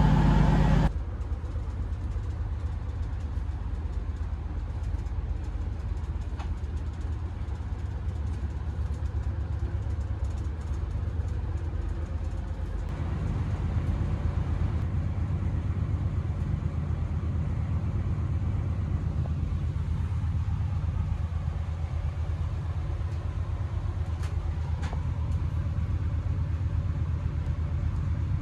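Class 220 Voyager diesel multiple unit, its underfloor diesel engine humming low and steadily as heard from inside the carriage. It grows louder about halfway through.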